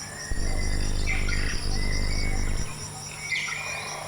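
Insects trilling steadily in the background with short bird chirps over them, and a low steady hum that comes in about a third of a second in and drops away past halfway.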